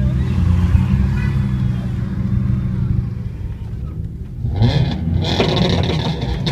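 Car engines idling steadily, heard from inside a car's cabin. About four and a half seconds in, a louder, fuller sound comes in over the engine hum.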